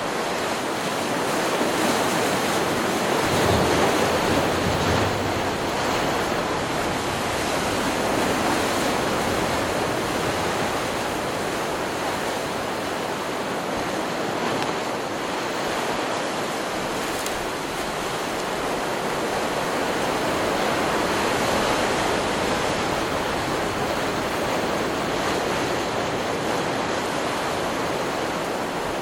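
Ocean surf from a stock recording: waves breaking and washing in as a continuous rush that swells and eases every several seconds.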